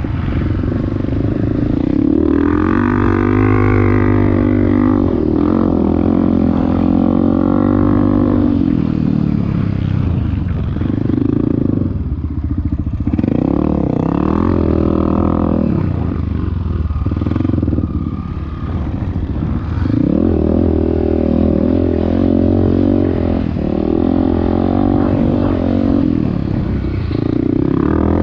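Off-road motorcycle engine running under throttle, its pitch climbing and dropping again and again as it is revved and eased off.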